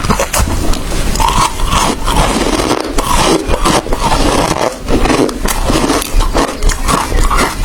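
A person biting and chewing ice close to the microphone: a dense run of loud, sharp crunches and cracks as the ice breaks between the teeth.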